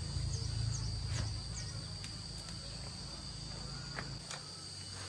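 Insects trilling steadily in one high, unbroken tone, over a low engine rumble that fades away during the first four seconds. A few faint clicks.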